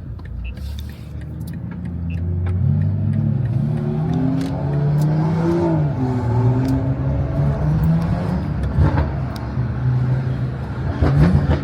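BMW M340i's turbocharged inline-six accelerating: its pitch rises for a few seconds, drops at an upshift about halfway through, then holds steady as the car pulls along.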